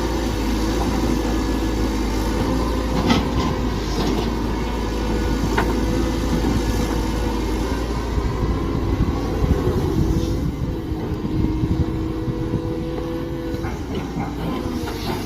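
Mini excavator engine running steadily, with a held whine that shifts in pitch partway through and a few sharp knocks.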